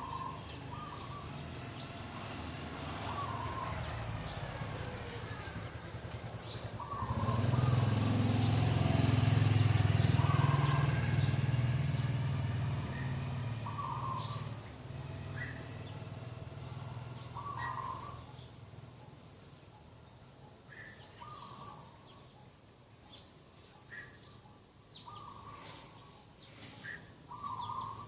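Dove cooing, a short call repeated every two to three seconds, with small birds chirping. A motor vehicle passes about seven seconds in and is the loudest sound, fading away over the next several seconds.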